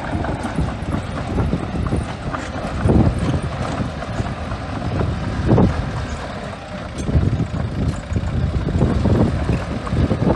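Small bulldozer working, its diesel engine running with uneven louder surges, and wind rumbling on the microphone.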